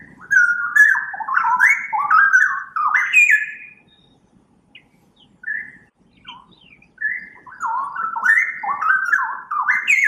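Recording of a straw-headed bulbul singing: two runs of rich, warbling song, each about three seconds long and made of quick notes sliding up and down, with a few single notes in the pause between them.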